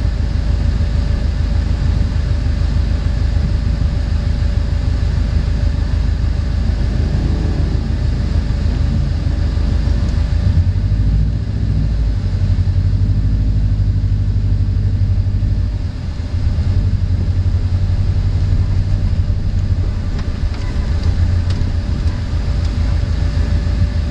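Inside the cabin of a 2002 Subaru WRX, its flat-four engine running with a steady low rumble and a faint steady tone above it. About ten seconds in the low rumble gets heavier as the car moves off.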